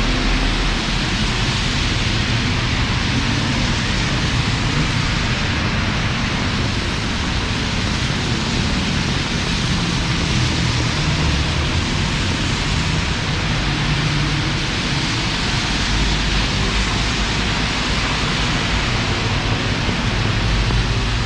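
Heavy monsoon rain falling in a steady, dense hiss, with a low rumble underneath.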